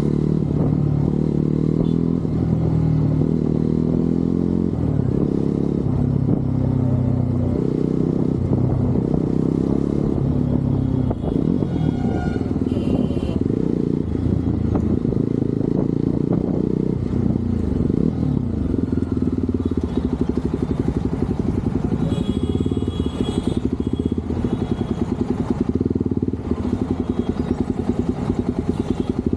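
Motorcycle engine and exhaust during a ride, the engine note rising and falling with throttle and gear changes. In the second half it runs slower and steadier, with an even pulsing beat.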